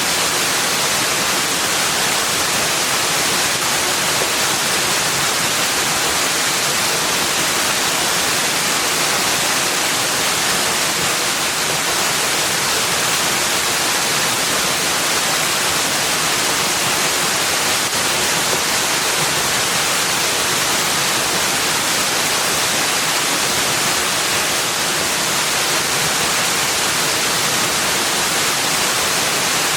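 Steady rushing of running water, an even hiss with no change in level and no separate splashes or drops.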